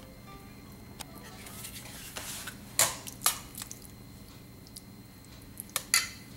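A bean, corn and avocado salad being stirred in a metal bowl: a soft wet squishing swell, then sharp clinks of a utensil against the bowl, two about three seconds in and two more near the end.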